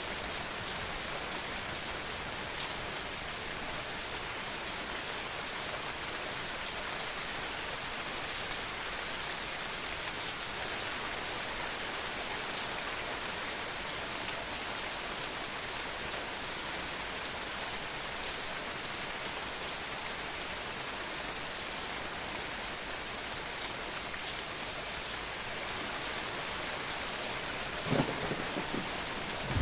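Steady, even rain falling on hard surfaces. Near the end a sudden crack of thunder breaks in, followed by a deep rumble.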